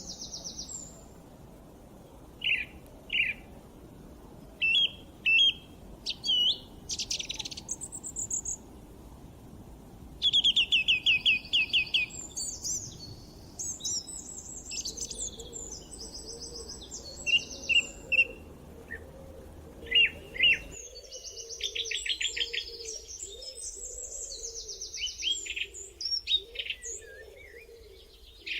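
Several songbirds calling and singing over each other: short chirps, fast trills and rapid runs of repeated notes. A faint background hiss under them drops out abruptly about two-thirds of the way through.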